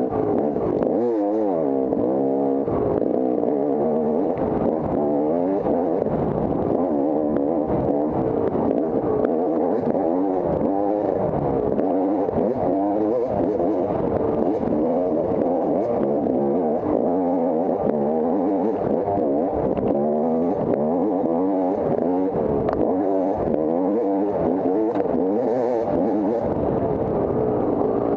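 Off-road dirt bike engine running hard and revving up and down without a break, its pitch rising and falling every second or so as the throttle opens and closes.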